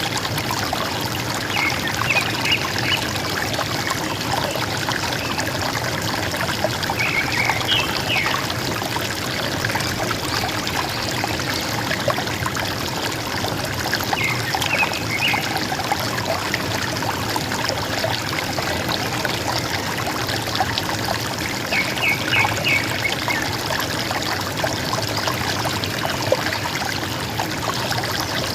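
River water running steadily with a gurgling sound, while a bird calls four times in short bursts of a few quick, high notes.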